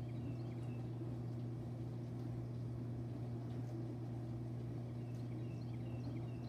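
Faint bird chirps, short high notes in small runs near the start and again in the last couple of seconds, over a steady low hum.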